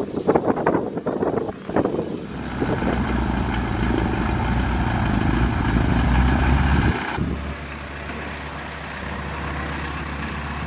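Boeing Stearman PT-13's Lycoming R-680 radial engine starting: a few irregular bursts, then it catches about two seconds in and runs steadily, growing louder. About seven seconds in it suddenly drops to a quieter, steady idle.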